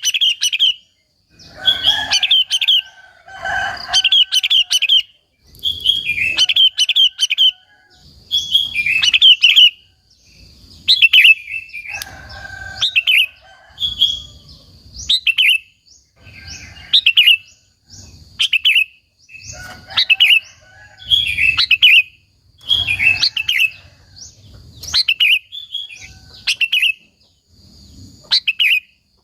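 Sooty-headed bulbul (kutilang) singing: short phrases of quick notes, repeated every one and a half to two seconds with brief pauses between.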